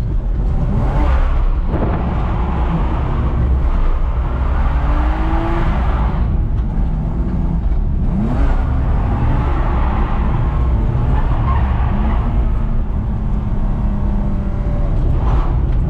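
BMW E46 325Ci's straight-six engine revving up and down under hard driving on a drift lap, with tyre noise underneath.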